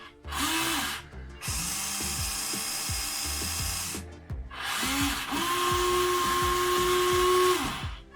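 Huina 1593 RC excavator's rock breaker attachment running in three bursts, a short one and then two of about two and a half and three seconds. Each starts with a short rising whine, and the last holds a steady whine until it cuts off.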